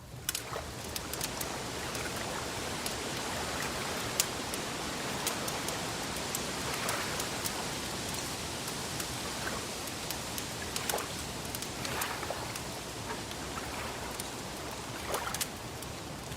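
Wood fire crackling: scattered sharp pops and snaps over a steady hiss, with one louder pop about four seconds in.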